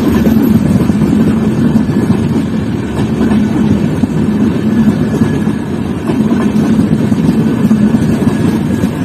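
Express train passing, a loud steady noise of its wheels running on the rails.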